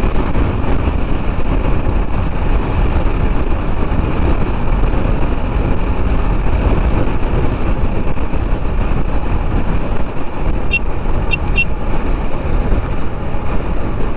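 Steady riding noise from a KTM Duke 390 single-cylinder motorcycle under way: wind rushing over the rider's microphone, with engine and road traffic beneath. Near the end come three quick high beeps.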